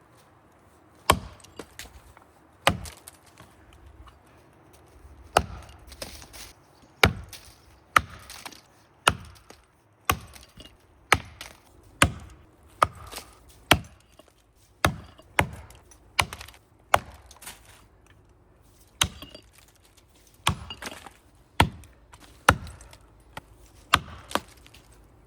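Axe chopping into a big maple trunk by hand: a steady series of sharp blows, about one a second, with two short pauses.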